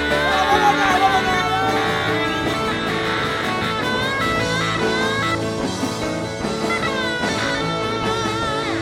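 Live blues-rock band playing an instrumental break, with a lead string instrument playing bending, gliding notes over the full band.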